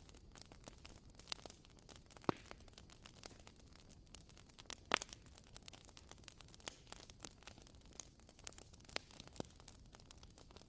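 Wooden wick of a WoodWick candle crackling: a steady patter of faint small clicks and pops, with two louder pops about two seconds in and just before the middle.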